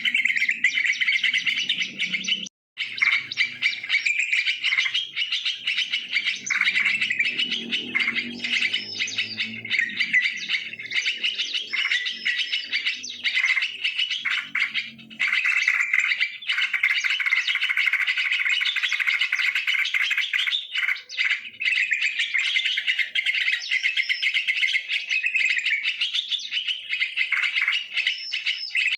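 Sooty-headed bulbuls (trucukan) calling and chattering without pause, a dense run of bubbly chirps, used as a lure call for the species. The calls break off for an instant about two and a half seconds in.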